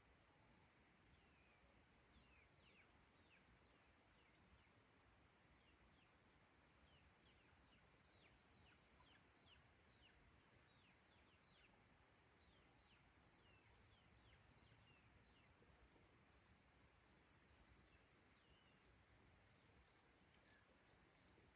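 Faint countryside dusk ambience: a steady, high insect drone with many short, quickly falling bird chirps over it, thickest in the first half.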